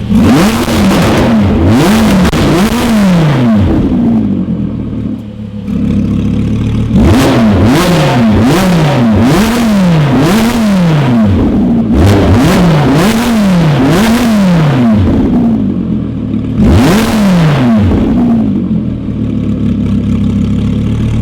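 Lamborghini Huracán Spyder's V10 with a Capristo exhaust being revved in quick blips, about one a second, in four bursts, dropping back to a steady idle between bursts and near the end.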